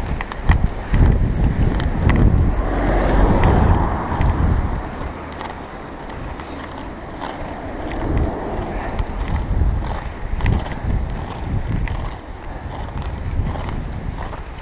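Wind buffeting a GoPro's microphone as a bicycle is ridden through fresh snow, with scattered clicks and knocks from the bike. The rumble is loudest for the first few seconds, then eases and surges again.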